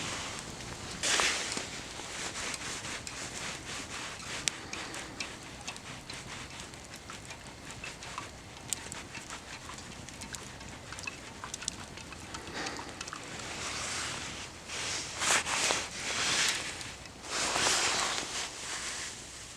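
Campfire crackling and popping with many small sharp snaps, broken by a few louder rushing swells of noise.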